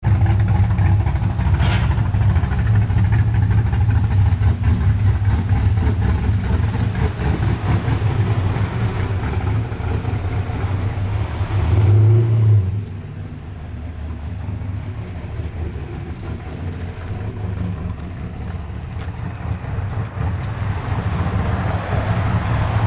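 Fox-body Ford Mustang's engine running loudly and close, with a brief rise in revs just before the halfway point. It then drops to a quieter, more distant running that picks up again near the end.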